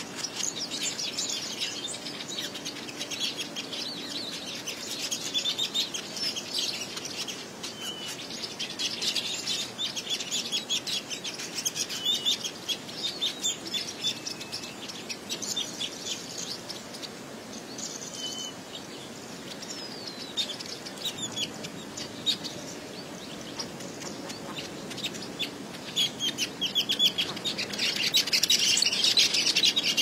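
Weaver birds calling in a dense, rapid chatter of short high notes, growing louder and busier near the end.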